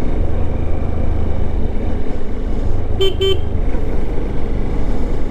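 Steady low rumble of wind and a motorcycle's engine while riding, with a vehicle horn sounding two quick short toots about three seconds in.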